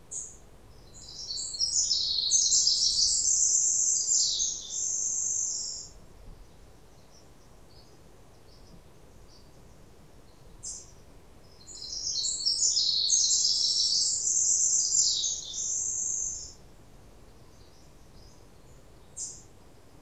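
A songbird singing two long, rapid, high-pitched warbling phrases of about five seconds each, roughly ten seconds apart, with a few short chirps in between.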